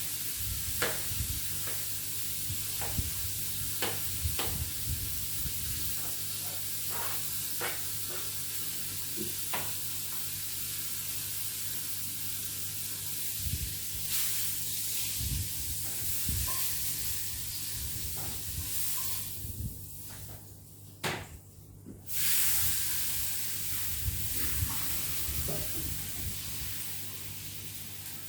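Meat patties sizzling in hot oil in a frying pan, with scattered clicks and scrapes of a utensil against the pan. The sizzle drops away briefly about twenty seconds in, then returns.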